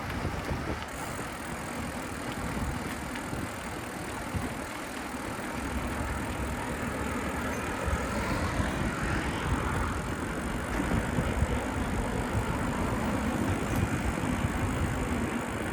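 Steady road noise from riding a bicycle along city streets: a low rumble with street traffic mixed in, growing a little louder about halfway through.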